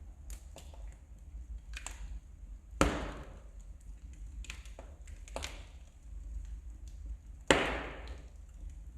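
Wood fire crackling in a fireplace: scattered small crackles, with two loud pops, one about three seconds in and another near the end, each trailing off in a short hiss.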